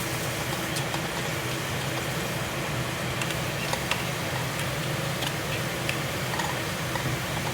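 Kitchen exhaust fan running steadily with a low hum, with a few faint clicks scattered through.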